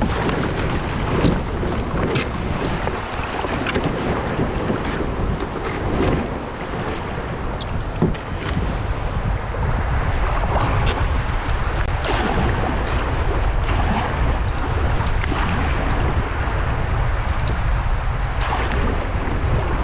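Wind buffeting an action camera's microphone over rushing water and surf from a kayak on the waves, with scattered short splashes.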